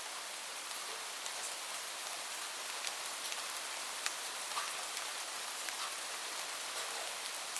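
Steady rain falling, an even hiss with many individual drops ticking close by on a surface.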